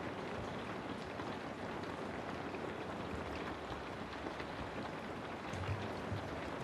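Steady rain falling on a house: an even hiss with scattered drop ticks, and a brief low rumble about six seconds in.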